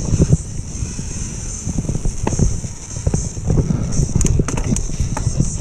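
Mountain bike rolling fast down a dirt downhill trail: tyres running over rough ground, with frequent irregular knocks and rattles from the bike and a steady high hiss throughout.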